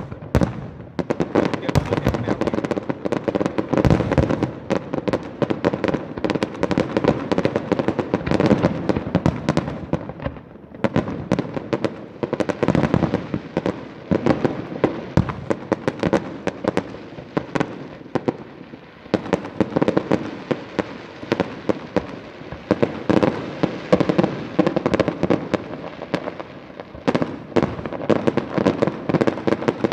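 Aerial fireworks display: shells bursting and crackling in a continuous rapid run, many reports a second, easing briefly about ten seconds in and again near nineteen seconds.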